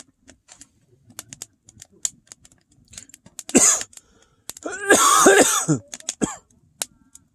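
A person coughs once about three and a half seconds in, then coughs and clears their throat for about a second, the loudest sounds here. Throughout, a wood fire crackles with small, sharp, irregular pops.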